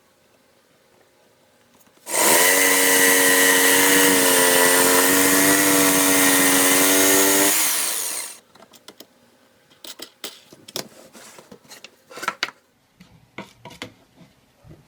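Electric jigsaw starting up and running for about five seconds, its motor pitch dipping slightly as it is loaded, then switching off and spinning down. Scattered light clicks and knocks follow.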